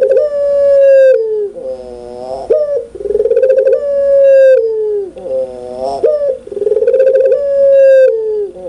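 Puter pelung (domestic ringneck dove) giving its loud, clear coo over and over, about every three seconds. Each phrase is a fast rattling run of notes, then a long drawn-out coo that drops in pitch at its end, then a short low note.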